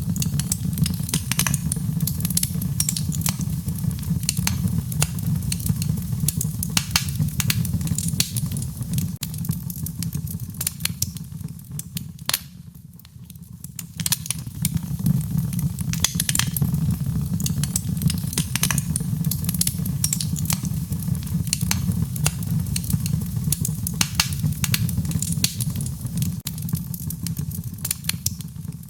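Wood fire burning: frequent sharp crackles and pops over a steady low rumble of the flames. It briefly drops quieter about thirteen seconds in.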